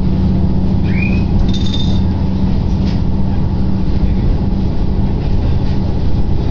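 Diesel railcar running, heard from inside the train: a steady engine drone with rumbling underneath. A brief high squeal comes about a second in, with a few faint clicks.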